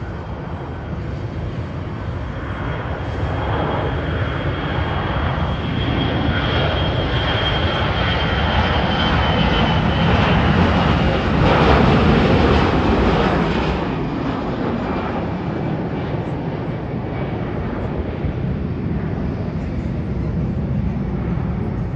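Airbus A321-211's twin CFM56-5B turbofan engines at takeoff thrust as the jet rolls past. The sound builds to its loudest a little over halfway, with a high whine that drops slightly in pitch, then eases into a steady rumble.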